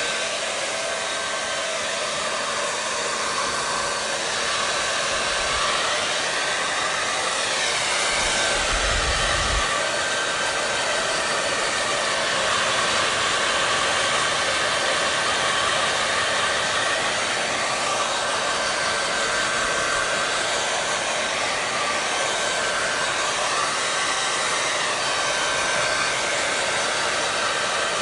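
Hair dryer running continuously, a steady airy blowing with a faint motor whine. The tone of the air shifts slowly up and down a couple of times, with a brief low rumble about nine seconds in.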